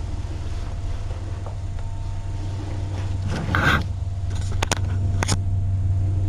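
A domestic cat purring steadily, a low even rumble. A brief rustle comes about halfway through, followed by a few sharp clicks.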